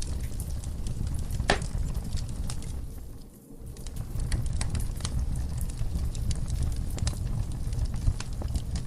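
Wood fire burning in a fireplace: a low steady rumble of flames with scattered crackles and sharp pops from the logs, one louder snap about a second and a half in. The sound briefly dips a little after three seconds in.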